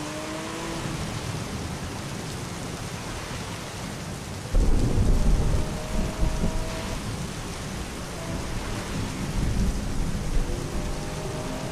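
Steady rain with a sudden thunderclap about four and a half seconds in, rumbling on and swelling again near the end.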